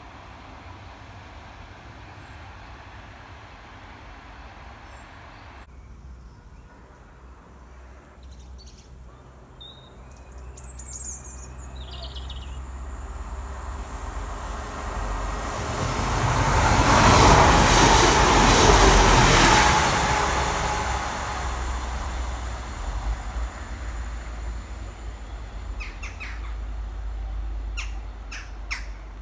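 A diesel train passing along the line: its noise swells to a peak a little past the middle, then fades away. Birds chirp briefly before it arrives.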